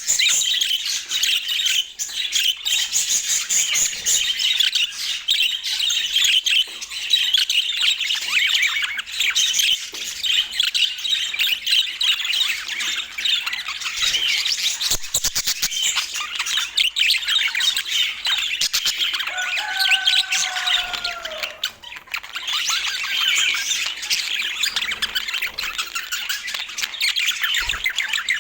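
Budgerigars chattering continuously in a rapid, high-pitched warble, with one lower, slightly falling call about twenty seconds in.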